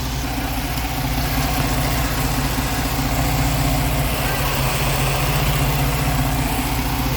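2005 Jeep Liberty's 3.7-litre V6 idling steadily with an even pulse, running after new spark plugs and a replacement ignition coil were fitted to cure a misfire.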